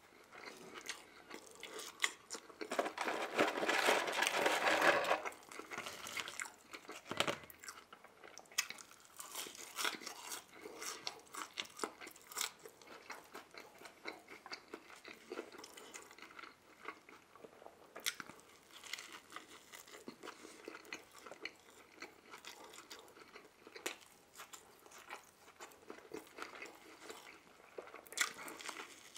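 Close-miked eating of a McDonald's Big Mac: soft bun, lettuce and sauce being bitten and chewed, with wet smacking clicks. Loudest for a couple of seconds about three to five seconds in, then steady chewing.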